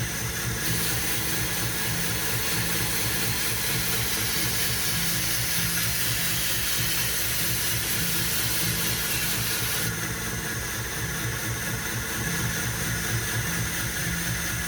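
Belt grinder running with a 120-grit ceramic belt, a knife blade held against it to grind the edge bevel: a steady motor hum with a hiss of steel on the belt that starts about a second in and eases off near ten seconds.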